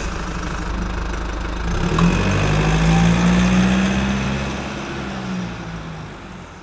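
Car engine running with a steady hum, swelling louder about two seconds in and then fading out near the end.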